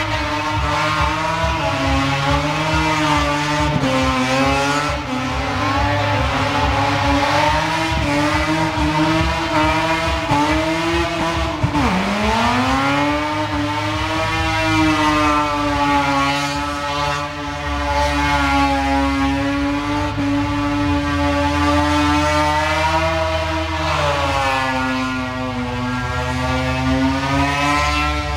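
A car engine held at high revs through a burnout, its rear tyres spinning in heavy smoke. The note wavers up and down, dips sharply about twelve seconds in, then climbs back and holds.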